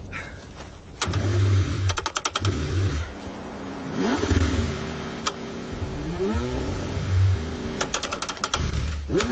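Cold car engine being cranked over repeatedly in bursts, with two quick runs of clicks and an engine note that rises and falls in pitch, as if briefly catching.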